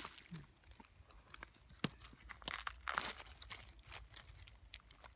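Crunching and rustling in dry forest litter, with scattered sharp cracks like twigs snapping and one louder snap about two seconds in.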